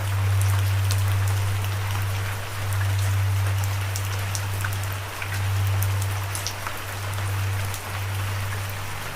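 Steady rain falling, an even hiss with scattered individual drops ticking. Under it runs a low, steady humming drone that is louder than the rain and restarts every second or two.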